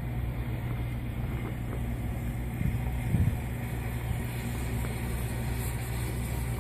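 A motor running steadily with a low, even hum, and a brief knock about three seconds in.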